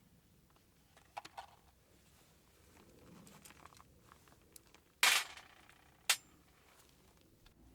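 Hard objects being handled during the repair: a few light clicks about a second in, a loud sharp knock with a brief ring around five seconds in, and another sharp click a second later.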